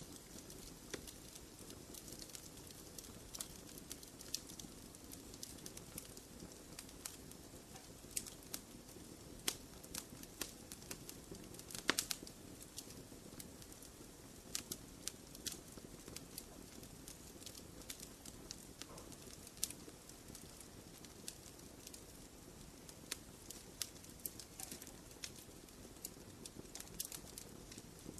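Wood fire crackling in a fireplace: irregular sharp pops and snaps over a low, steady rustle of flames, with the loudest snap about twelve seconds in.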